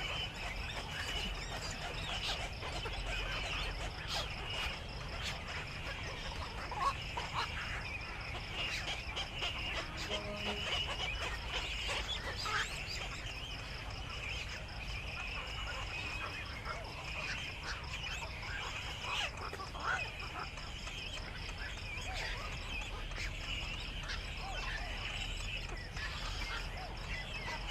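Birds calling continuously, a dense chirping chorus with scattered short calls, over a steady, pulsing high-pitched chirring.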